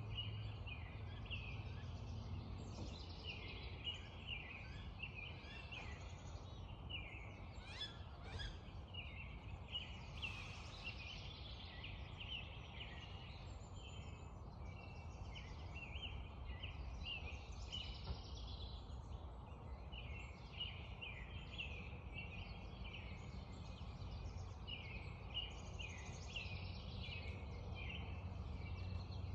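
Birds chirping and singing in a dense, continuous morning chorus of many short repeated high notes, over a steady low rumble.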